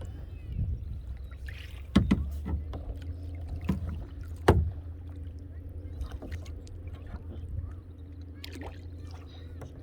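A small kayak being paddled: water sloshing and small splashes, with two sharp knocks about two and four and a half seconds in, over a steady low rumble.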